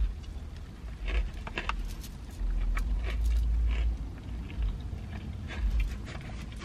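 A person biting into and chewing a fried chicken sandwich, with small wet mouth clicks scattered through the chewing. Under it runs a low rumble that swells around the middle as a car passes outside.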